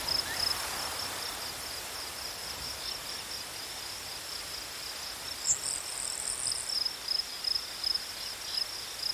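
Crickets chirping in a steady, rapid pulse over a soft hiss, with a second, higher trill joining briefly about halfway through.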